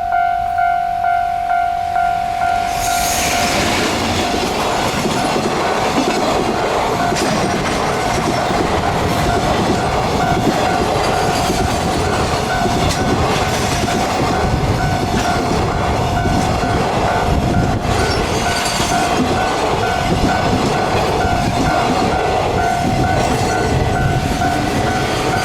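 A railway level-crossing alarm rings with a steady, pulsing electronic tone. About two and a half seconds in, a train arrives and passes close by, loud, with wheels clattering over the rail joints. The alarm goes on ringing under it.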